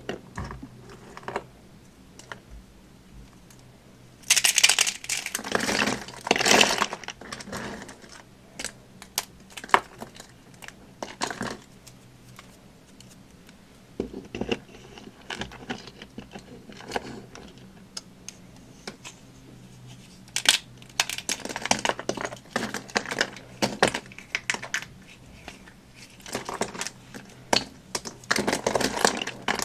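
Dry soap being crunched and crumbled by hand close to the microphone: irregular crisp crackles and snaps, with several louder bursts of crunching between quieter stretches of scattered clicks.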